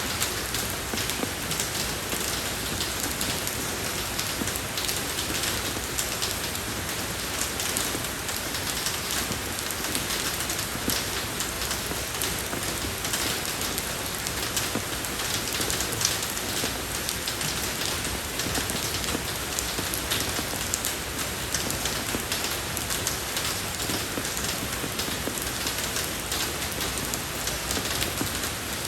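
Steady rain falling on a road surface, an even hiss dense with the ticks of individual drops.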